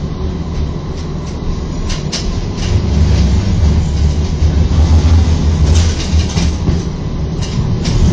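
Istanbul T1 tram running on its rails: a steady low rumble that grows louder about three seconds in, with a few sharp clicks.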